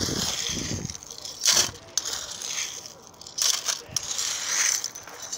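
Small rocks being scooped with a shovel and poured, rattling and clattering in a few separate bursts.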